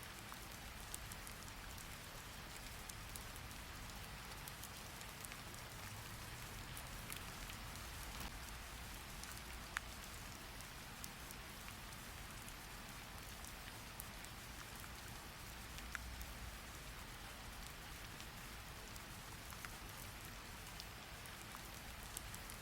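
Steady rain, a soft even hiss, with an occasional single sharp tick.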